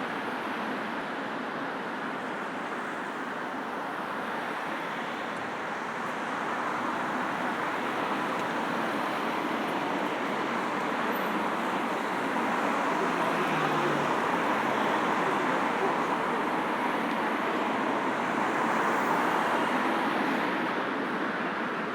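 Steady road traffic noise from a busy multi-lane city road, vehicles streaming past, growing louder about halfway through as nearer cars pass.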